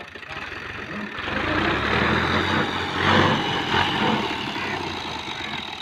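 Small tractor's engine running, growing louder about a second in and easing off again toward the end.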